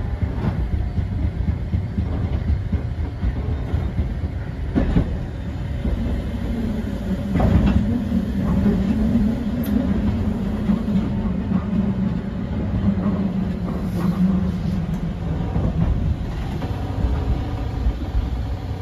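Eizan Electric Railway electric train running along the track, heard from inside the front car: a steady rumble of wheels on rail with a few sharp clacks over rail joints. A low steady hum comes in about six seconds in and fades out about fifteen seconds in.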